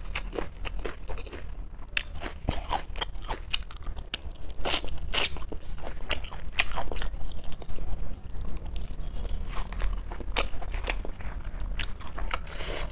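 A person eating close to the microphone: chewing with irregular sharp crunches and clicks, several of them a second at times.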